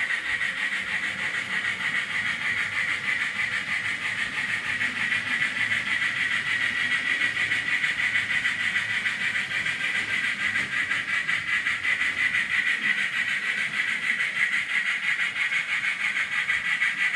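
N gauge model trains running on the layout: a steady high-pitched whir of the small locomotive motors and wheels on the track.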